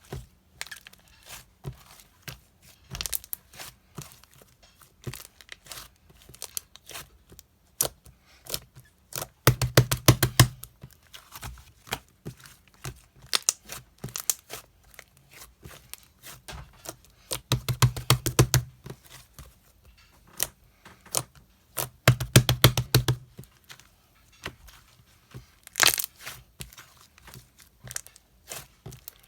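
Tearing and crinkling of something handled close by, with scattered clicks and taps. Three longer runs of rapid crackling strokes come about ten, eighteen and twenty-two seconds in.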